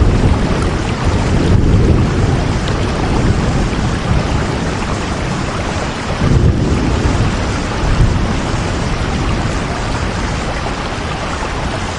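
Heavy steady rain with deep rumbling swells, like thunder, about six and a half seconds in and again near eight seconds.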